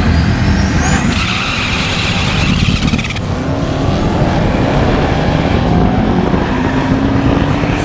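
Turbocharged 408 Windsor stroker V8 in a Fox body Mustang race car under hard acceleration on a drag-strip pass. The engine note climbs in pitch over the first second and a half, then runs on loud and steady.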